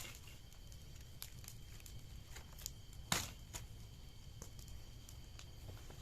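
Bonfire crackling, with scattered sharp snaps and one louder pop about three seconds in, over a low rumble and a faint steady high tone.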